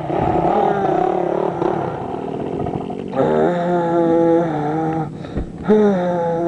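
Dirt bike engine running on the track, climbing in pitch and then stepping down through gear changes from about three seconds in.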